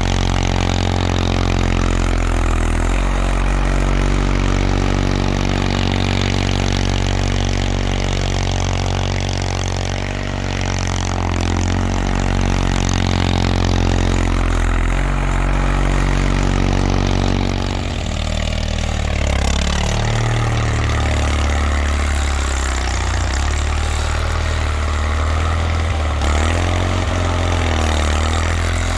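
1979 Bolens HT-23 garden tractor's 23 hp Kohler K582 opposed-twin engine running steadily. About two-thirds of the way through its pitch shifts as the engine speed changes, then it settles again.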